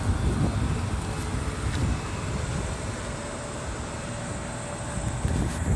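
Strong wind buffeting a phone's microphone, an uneven low rumble that swells and dips.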